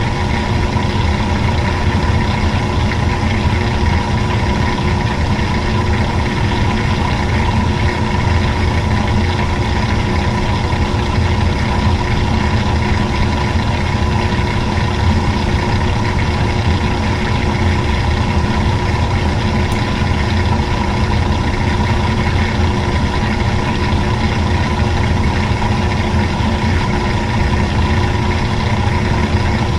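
Old-style washing machine running: a loud, steady mechanical drone with a low rumble and a constant hum that does not change.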